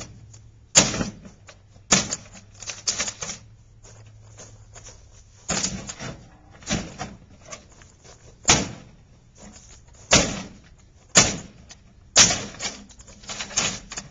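Microwave oven door being wrenched and snapped off: about ten sharp, irregular cracks and knocks of hard plastic, a second or so apart.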